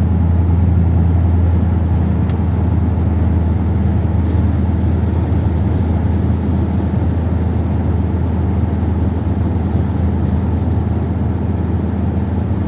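1957 Ford Thunderbird's V8 engine running steadily under way, with road noise, as the car cruises at an even speed. The engine is running on a two-barrel carburettor setup with fresh spark plugs and pulls smoothly.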